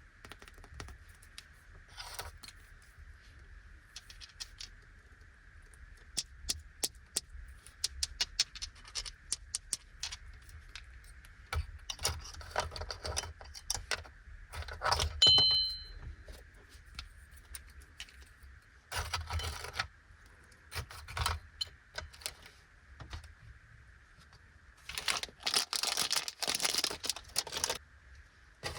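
Plastic candy wrapper crinkling, with many small clicks and taps as a wrapped stick candy is handled and unwrapped. There is a brief ringing clink about halfway through, and the crinkling becomes dense near the end.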